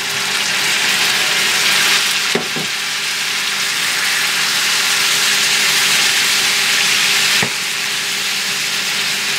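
Chicken strips, sliced red peppers and onions sizzling in a hot cast iron skillet while being tossed with a wooden spatula. The sizzle is a steady hiss, broken twice by a brief knock.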